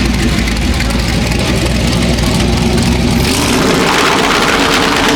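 Car engine running near idle, a deep steady rumble, with a swell of noise about three seconds in, like a car rolling by or a light rev.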